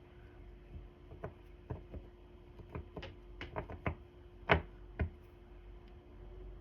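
Irregular light taps and clicks from hands handling objects, most likely tarot cards, about a dozen in all, the loudest about four and a half seconds in, over a steady low hum.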